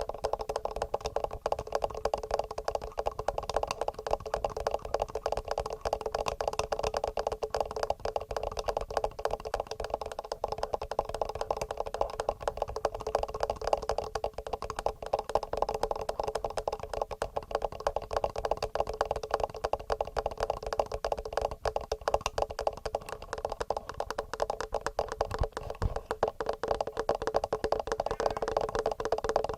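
Rapid, continuous fingernail tapping on a TASCAM handheld recorder's built-in microphones, heard as a dense stream of quick clicks with no pauses.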